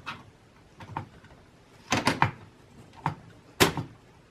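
A low-profile graphics card being fitted into a PCI Express x16 slot in a small-form-factor PC case: a few separate sharp knocks and clicks, the loudest a little over three and a half seconds in.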